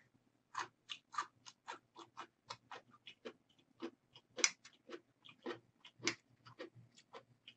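Close-miked chewing of ramen noodles: a quick run of short, wet mouth clicks and smacks, about three or four a second. Near the end comes a bite into a piece of kimchi.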